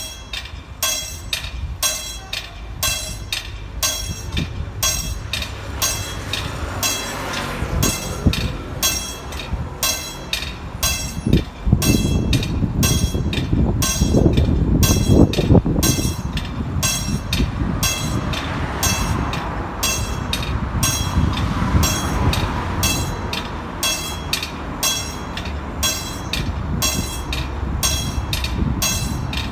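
A diesel passenger train pulling away, its rumble building about seven seconds in and loudest a few seconds later as it passes, then running on steadily. Throughout, a bell strikes at an even, quick rhythm, typical of a level-crossing or station warning bell.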